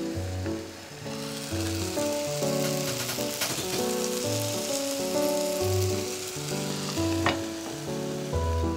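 Egg, cheese and whitebait frying in a hot sandwich grill pan over a gas burner: a steady sizzle, with background music and its bass line playing over it. A single sharp tick comes about seven seconds in.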